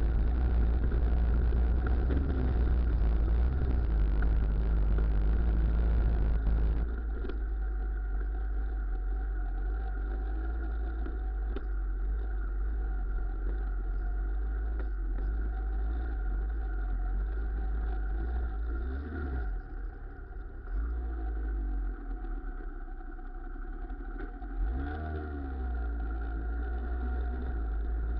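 Engine of a Muravey motor-scooter trike running steadily. It is louder for the first seven seconds, then drops to a lower, steady note, with brief changes in pitch about two-thirds of the way through and near the end.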